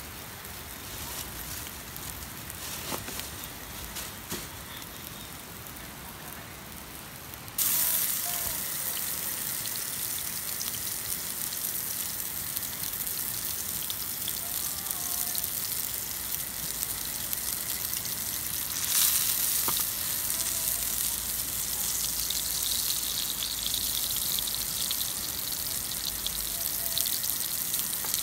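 Food frying in a pan over a wood campfire, breaking into a loud sizzle about eight seconds in. Before that there are quieter crackles and clicks from the fire.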